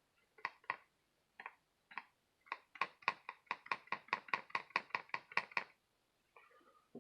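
A stiff, paint-caked brush being dabbed onto a painting canvas to stipple dots: short taps, a few at first, then a quick steady run of about four a second that stops about a second before the end.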